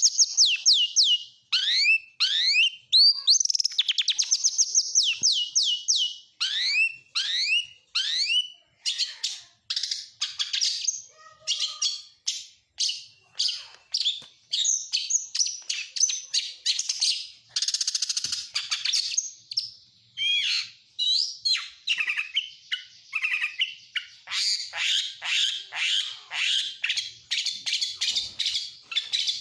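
Oriental magpie-robin singing a fast, varied song of repeated down-sweeping whistles, rapid trills and chattering phrases, with mimicked calls of other birds woven in.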